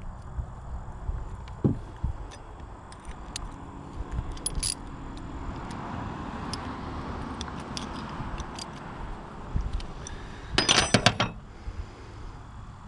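Metal hand tools, wrenches or sockets, clicking and clinking as they are handled and sorted. Near the end comes a louder burst of jangling, ringing metal lasting under a second.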